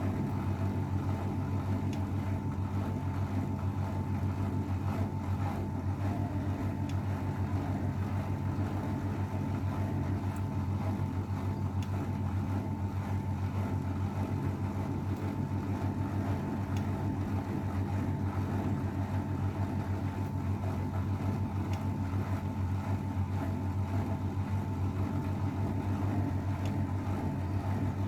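AEG Öko-Lavamat 693 washing machine spinning steadily at speed in its final spin: an even low motor and drum hum with a fainter, higher steady whine above it.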